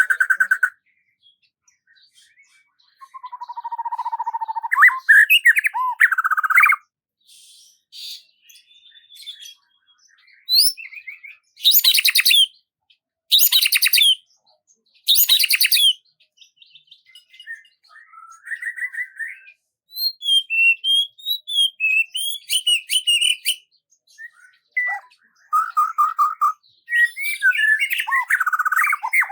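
Songbirds singing in separate phrases of chirps, trills and whistled glides, with short silent gaps between them. Three loud, high, rapid phrases come about a second and a half apart near the middle.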